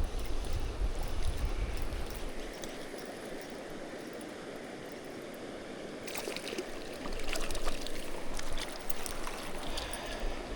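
Mountain stream running over rocks, with wind rumbling on the microphone for the first couple of seconds and a spell of sharp crackling splashes over the last few seconds.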